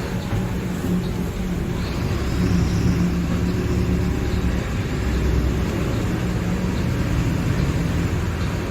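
Mercedes-Benz OF-1721 BlueTec 5 bus's four-cylinder diesel engine running with a steady low hum, growing a little louder about two seconds in.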